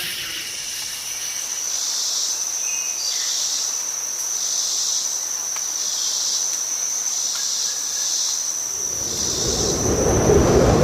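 Insects trilling in a natural ambience: a steady high trill, with a second chorus pulsing in and out about once a second. A low rumble comes in near the end.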